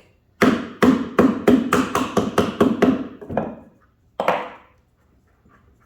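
Hammer tapping a new drum bearing down into its seat in an LG washer's tub housing: a quick run of about a dozen sharp strikes, three to four a second, then one more strike a moment later, finishing the bearing's seating.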